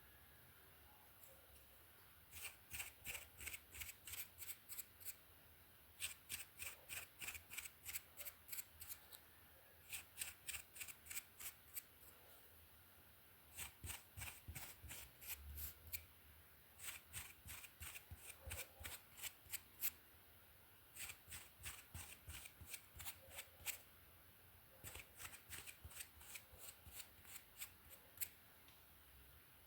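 Hairbrush bristles stroking quickly through hair, each stroke a crisp brushing scratch. The strokes come about three a second in seven runs, with short pauses between runs.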